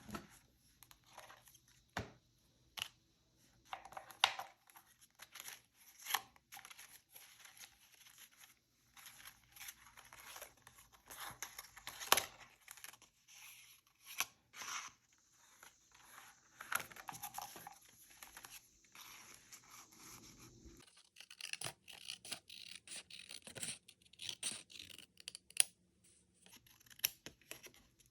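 Paper being handled by hand: irregular rustling, crinkling and tearing, with scattered small taps and scrapes.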